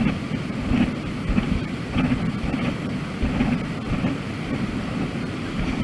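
Wind buffeting a camera microphone in uneven gusts about once or twice a second.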